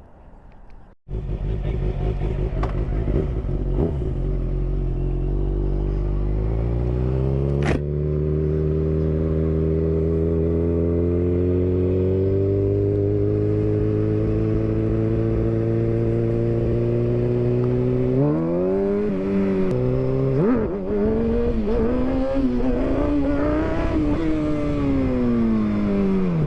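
Motorcycle engine running loud, starting abruptly about a second in; its pitch climbs slowly and steadily for about ten seconds, then goes up and down unevenly with quick throttle blips through the last several seconds.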